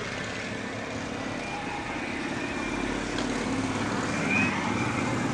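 A car engine running and growing gradually louder as the car draws closer.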